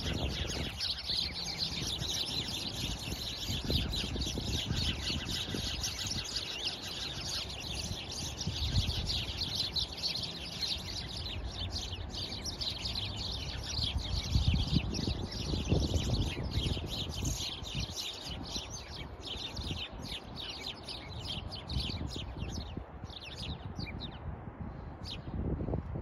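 A flock of small birds chirping rapidly and continuously, many calls overlapping, thinning out over the last few seconds, over a low rumble.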